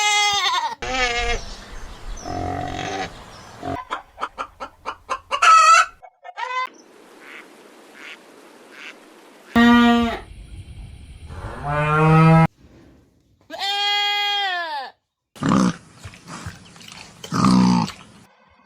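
A run of farm animal calls, one short clip after another, with abrupt cuts between them: calls from livestock such as goats and cattle alternate with poultry calls.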